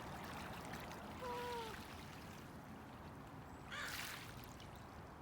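Gentle seawater lapping and trickling at the shoreline, a steady wash. A short falling call sounds about a second in, and a brief rush of noise comes about four seconds in.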